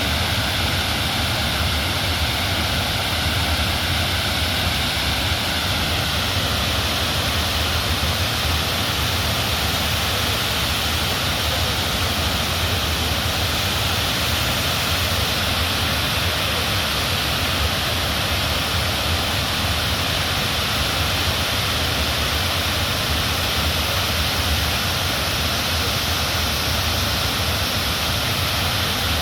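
Swollen river in flash flood, its fast water rushing past in a loud, steady, unbroken noise.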